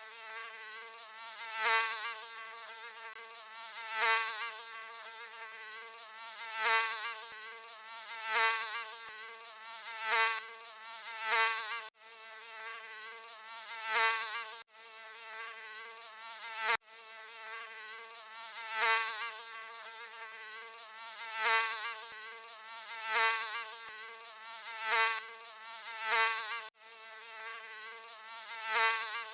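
Mosquito wing whine: a continuous high buzz with a stack of overtones, swelling and fading every second or two as if the insect passes close by the ear and away again. A few brief dropouts mark the joins of a looped recording.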